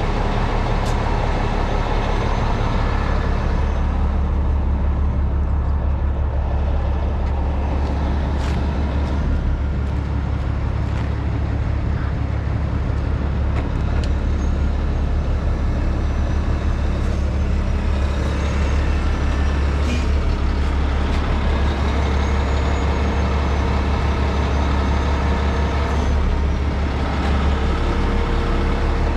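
Heavy rotator wrecker's diesel engine running steadily at a constant speed, with a few light clicks and knocks over it.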